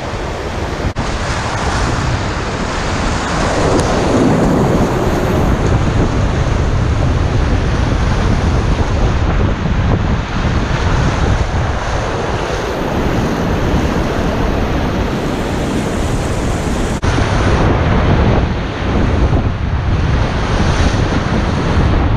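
Whitewater rushing loudly and steadily through a river rapid, with wind buffeting the microphone.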